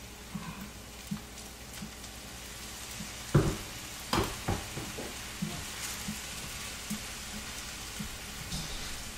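Fried rice sizzling in a skillet while it is stirred, with light scraping and small ticks throughout. Two louder knocks of the utensil against the pan come about three and four seconds in, followed by a few smaller ones.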